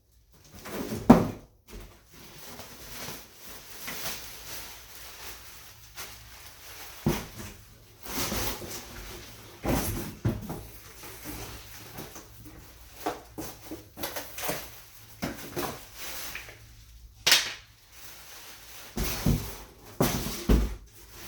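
Irregular knocks, clunks and clatter of hard objects being handled, with a loud knock about a second in and a sharp crack a little after the middle, over a faint steady low hum.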